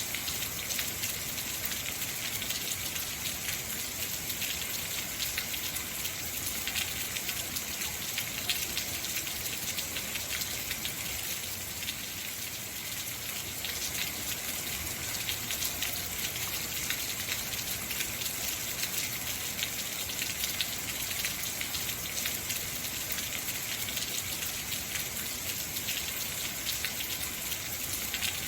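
Heavy rain falling steadily, a dense even hiss with many fine drop impacts.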